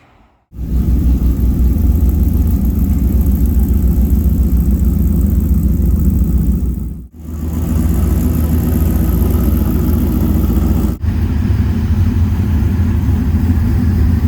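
Loud engine running with a deep, steady exhaust rumble from a modified car or truck. It breaks off sharply twice.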